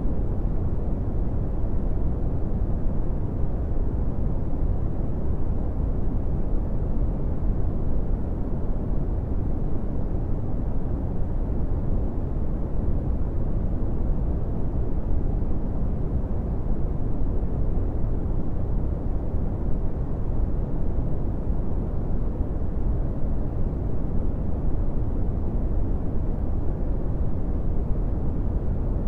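Steady brown noise: an even, unchanging rumbling hiss, with most of its energy in the low frequencies and little above about 1 kHz.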